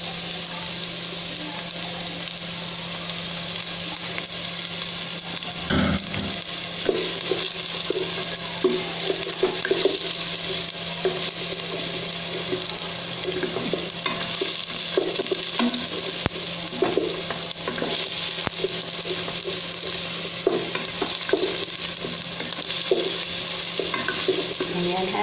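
Chopped garlic and ginger sizzling in hot oil in a stainless steel pot, with repeated scrapes and knocks of a spatula against the pot as it is stirred, and a thump about six seconds in.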